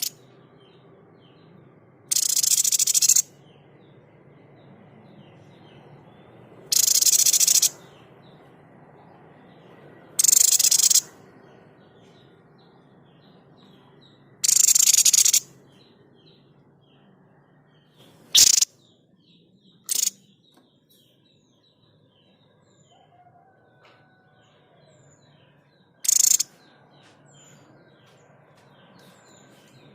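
Tepus dada putih ('sniper' babbler) giving its harsh, explosive 'shot' calls: four rasping bursts of about a second each, then three short sharp cracks. Faint chirping of other small birds or insects runs underneath.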